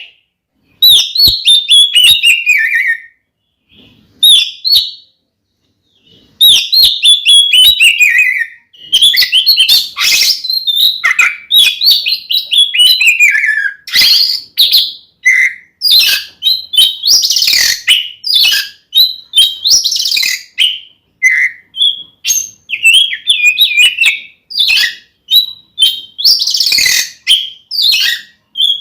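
Oriental magpie-robin (kacer) singing a loud, varied full song. Its phrases are rapid strings of whistled notes, many falling in pitch, mixed with sharp clicking notes. It sings in short phrases with brief pauses for the first few seconds, then almost without a break.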